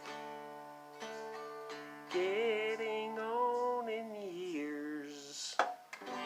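Acoustic guitar music without singing, with a held, wavering melody note through the middle.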